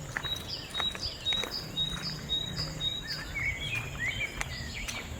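Insect calling in a steady series of short high notes, about two a second, with birds chirping in the middle.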